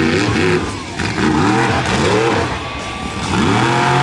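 Monster truck engine revving hard in repeated bursts, its pitch climbing and falling several times. It eases off about three seconds in, then climbs again as the truck goes for a wheelie.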